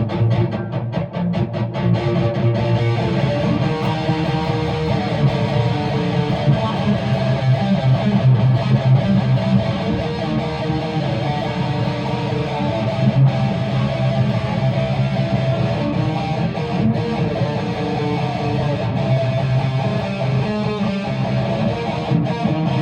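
Guitar strummed steadily, playing through the chords of a song.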